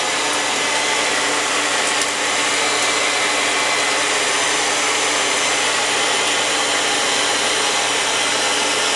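Hair blow dryer running steadily: a constant rush of air with a steady motor whine.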